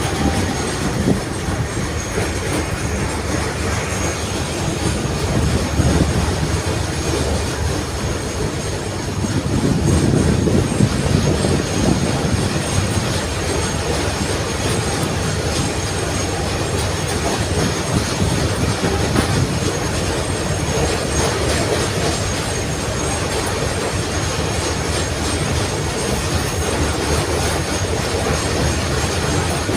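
A 71-631 tram running along the track, heard on board: a steady rumble of wheels on rails, somewhat louder for a few seconds about ten seconds in.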